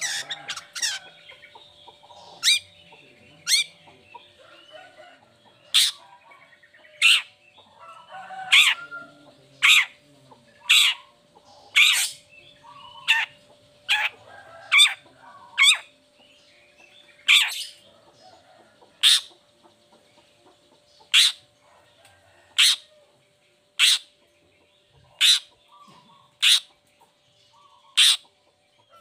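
Long-tailed shrike (cendet) giving short, harsh calls about every one to two seconds, some twenty in all, over a faint steady hum.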